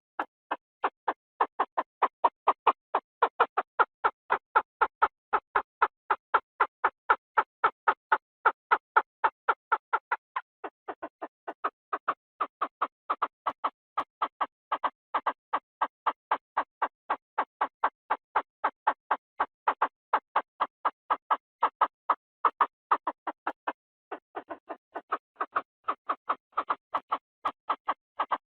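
Chinese francolin calling as a decoy recording: a long run of harsh, clipped notes repeated about three to four times a second, with brief breaks about ten and twenty-four seconds in.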